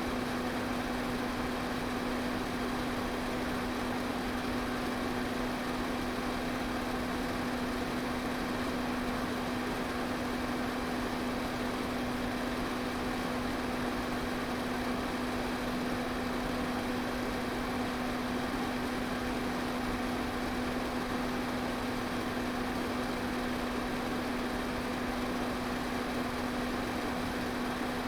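Electric fan running steadily: an even rush of air with a constant motor hum beneath it, unchanging throughout.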